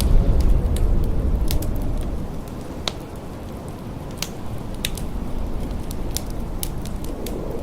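Wood fire crackling with scattered sharp pops and snaps over a low rumble of blizzard wind, which howls faintly near the start and again near the end and eases off in the middle.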